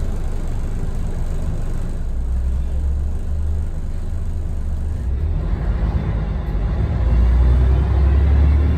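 Scania L113TRB bus's 11-litre six-cylinder diesel engine running with a steady low rumble, growing louder about seven seconds in.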